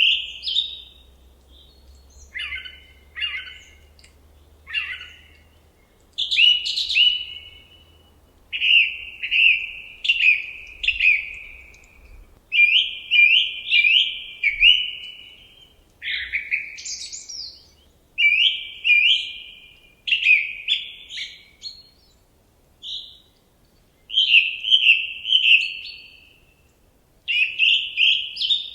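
A songbird singing short phrases of quick, high, downward-slurred notes, repeated every second or two with brief pauses between.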